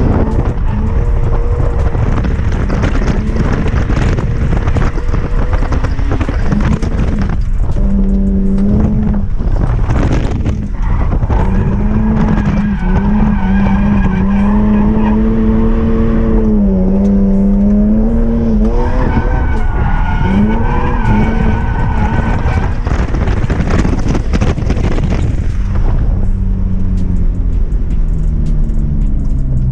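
BMW E46 M3's straight-six engine held at high revs through a drift, its pitch rising and dipping with the throttle, with tyre squeal and noise over it. The revs fall away near the end.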